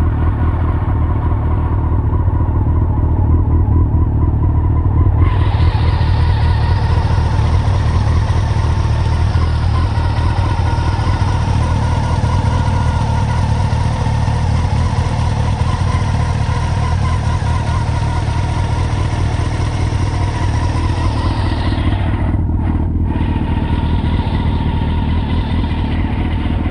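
Honda CBR954RR's inline-four engine idling steadily through an aftermarket full titanium exhaust system. A hiss joins the engine sound about five seconds in and fades near the end.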